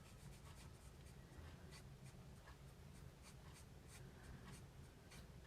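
Faint, irregular scratchy strokes of a Stampin' Blends alcohol marker colouring on card stock, over a low steady hum.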